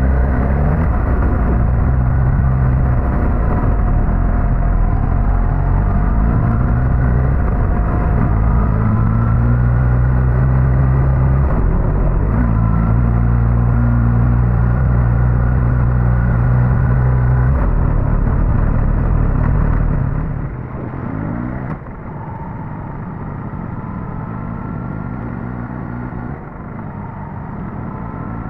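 Suzuki GSX-S1000GT's inline-four engine running while riding, its pitch stepping up and down. About two-thirds of the way through it drops quieter as the throttle eases off, with brief rises in revs after.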